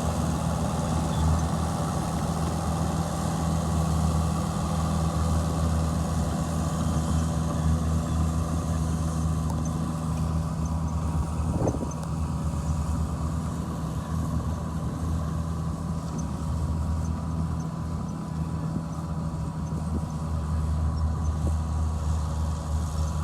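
Heavy earthmoving machine's diesel engine running steadily at a constant low hum, with a thin steady whine above it and one brief sharp knock about halfway through.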